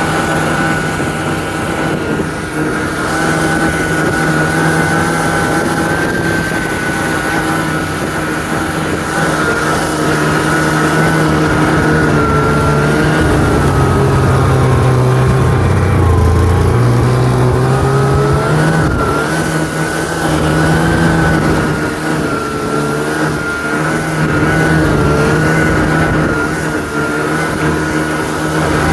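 Ski-Doo Tundra snowmobile's 550 cc two-stroke engine running steadily. Its speed drops briefly a little past halfway, then picks back up.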